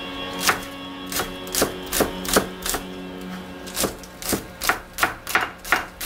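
Kitchen knife chopping on a cutting board in a steady run of sharp strikes, about two to three a second, over steady background music.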